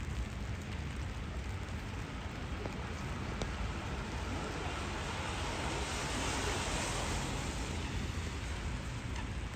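Steady rain on a city street, with a car's tyres hissing past on the wet road, swelling up about halfway through and fading again near the end.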